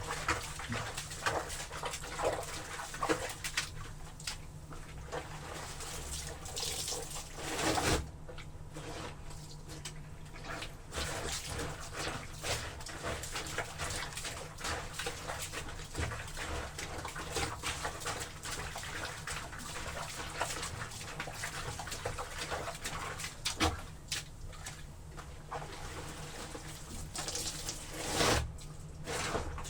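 Wet laundry being trampled underfoot in water: irregular sloshing and squelching, with a few louder splashes along the way.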